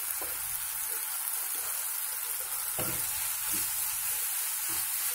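Softened tomato pieces and spice powders sizzling in oil in a nonstick kadai as a spatula stirs them, a steady hiss with a few soft knocks of the spatula against the pan in the second half.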